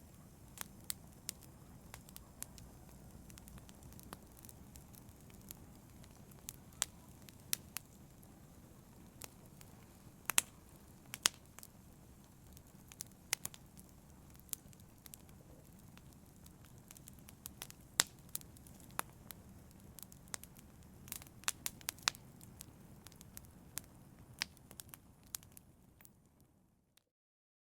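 Wood fire burning in a fireplace: irregular sharp crackles and pops over a low, steady rumble of flames. It fades out and stops shortly before the end.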